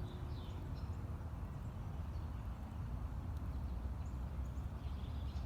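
Faint, short bird chirps, a few early on and again near the end, over a steady low rumble.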